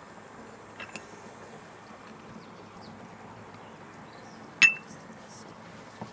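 A steady faint background noise with two light clicks about a second in, then one sharp clink with a brief ring about three-quarters of the way through.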